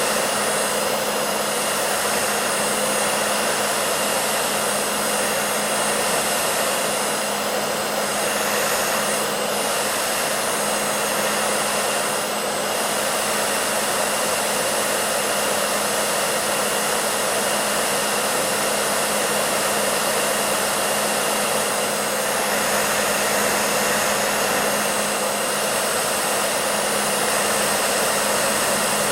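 Hair dryer running steadily: an even whooshing blower noise with a constant motor hum underneath.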